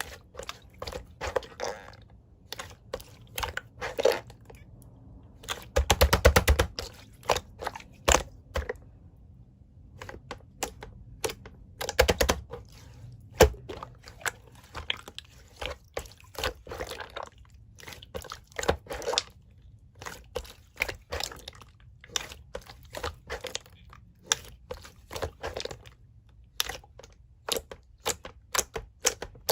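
Blue slime being squished, poked and folded by hand, making many quick sticky clicks and small pops, with denser runs of clicking about six seconds in and again around twelve seconds.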